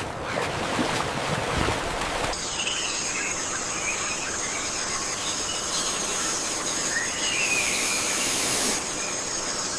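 Rushing water noise, which gives way abruptly a little over two seconds in to forest sounds: scattered short bird chirps over a steady high-pitched insect drone.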